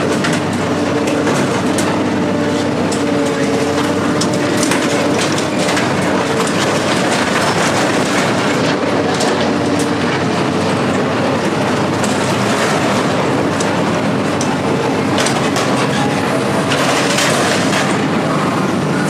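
Steady running noise of a vehicle in motion, with constant rattling and clatter over a low, even hum.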